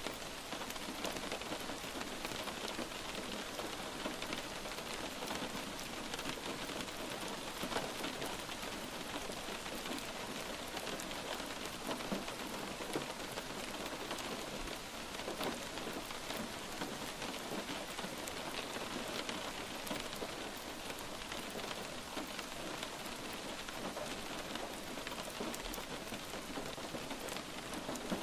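Steady light rain falling on a surface, an even hiss with many small drop ticks throughout.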